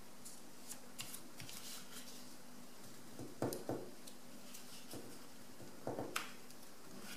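Sheet of paper being folded and creased by hand, with small crinkles and rustles and two louder paper rustles about halfway through and near the end. A faint steady hum sits underneath.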